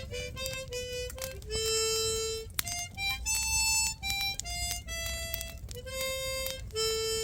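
Harmonica playing a slow melody, one clear note at a time, with some notes held for about a second.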